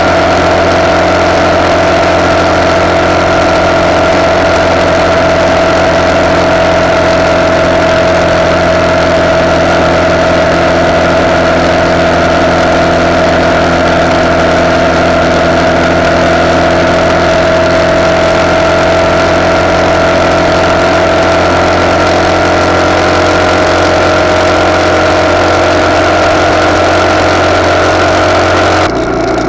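RPS Hawk 250's single-cylinder four-stroke engine running at a steady cruising speed through its de-catted CRF230 exhaust, holding an even pitch, with wind rushing over a handlebar-mounted camera. Just before the end an edit cuts abruptly to a quieter engine sound.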